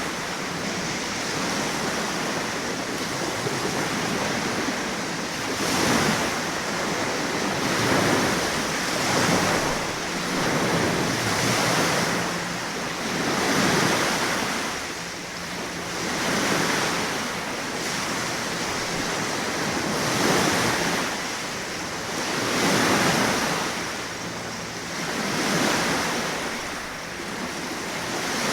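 Surf: a steady rushing noise of waves that swells and ebbs every two to three seconds.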